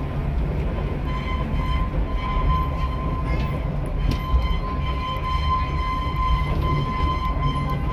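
Open passenger coach rolling along the track behind a small steam locomotive: a steady rumble of wheels on the rails, with a thin steady whine above it.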